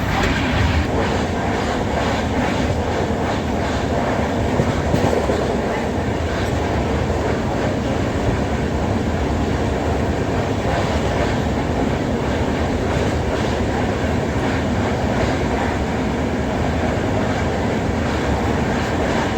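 Moving passenger train: a steady rumble and rattle from the wheels on the track, with scattered clicks over the rail joints.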